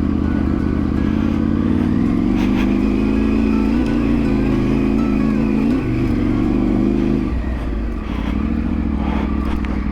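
Motorcycle engine of a Triumph Tiger 900 Rally Pro, an inline three-cylinder, running steadily under way, its note rising about two seconds in and dropping again about seven seconds in.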